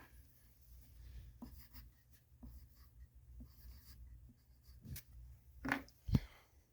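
Pencil scratching on paper, with a few light knocks near the end.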